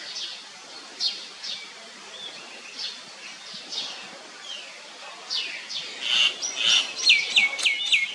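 Wild birds chirping and calling in the trees: many short, high chirps that grow busier after about five seconds, ending with a quick run of four repeated notes.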